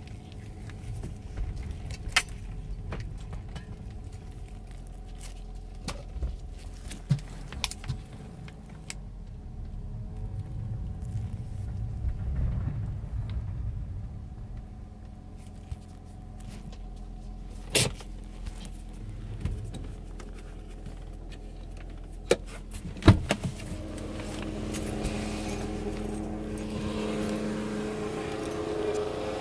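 BMW E46 3 Series with a steady low hum, several sharp clicks and jangles of keys. From about two-thirds of the way in, a groan of pitched tones swells and grows louder. The owner hears this groan on startup and shutdown and has already replaced the power steering pump without curing it.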